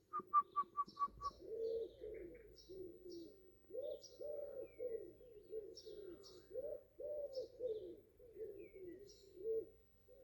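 Birds calling: many short, low cooing phrases one after another, with scattered high chirps over them. A quick run of about seven short notes opens it.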